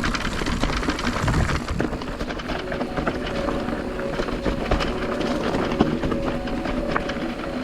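Mountain bike rolling over a rough forest trail: tyre noise with frequent small rattles and knocks from the bike. Background music with held notes comes in under it about two and a half seconds in.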